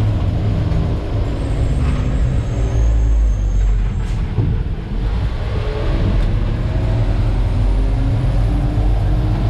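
Diesel engine of a Terex FD4000 front-discharge concrete mixer truck running while the truck is driven, heard from inside the cab as a heavy low rumble, its pitch drifting up and down with engine speed.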